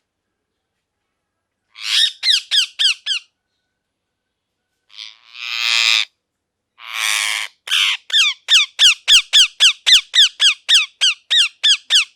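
Ringneck parrot calling: after a short quiet, a quick run of sharp falling chirps, then two harsh screeches, then a long fast string of repeated falling chirps, about four a second.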